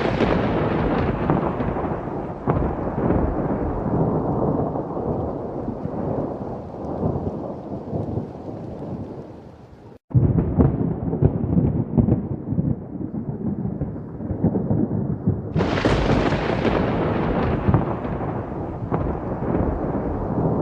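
Heavy thunderstorm: continuous rumbling thunder over rain, with a loud thunderclap at the start and another about fifteen seconds in. The sound breaks off for an instant about ten seconds in.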